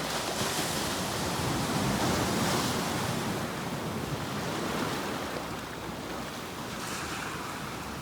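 Sea waves breaking and washing on a shore, a steady rush that swells and eases, louder in the first half and softening from about five seconds in.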